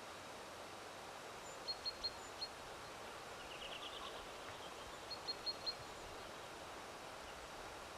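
Small songbird chirping faintly: a quick run of four high chirps, a short rapid trill, then another run of four chirps, over a faint steady outdoor hiss.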